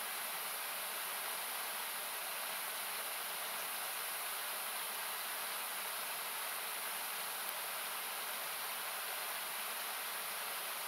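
Steady rushing of a river, thinned by equalising into an even hiss, with one faint crackle from a wood campfire past the middle.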